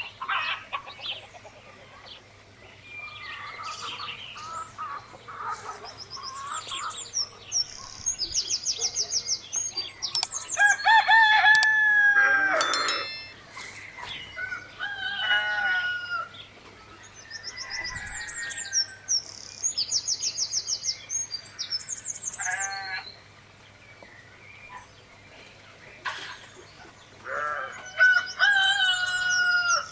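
A rooster crowing twice, the loudest call about a third of the way in and another near the end, with chickens clucking and small birds chirping in quick high trills between.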